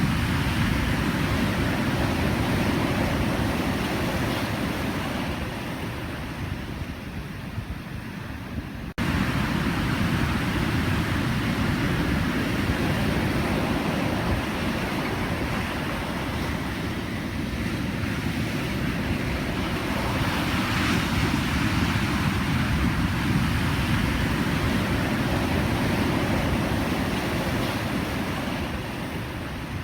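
Pacific Ocean surf: a continuous rush of breaking and washing waves that slowly swells and eases. About nine seconds in, the sound drops out for an instant and comes straight back full.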